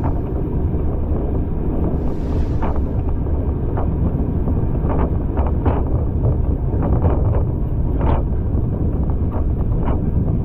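A passenger train running along the line: a steady low rumble, with wind buffeting the microphone and scattered sharp clicks and knocks from the carriage and wheels.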